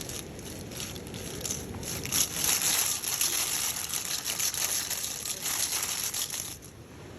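Flowing, splashing water close by, with a crackling rustle over it; the sound drops off sharply near the end.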